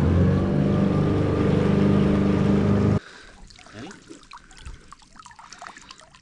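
Outboard motor on a small aluminium boat running at steady speed; it stops abruptly about three seconds in. After that there is faint trickling water and a few small knocks.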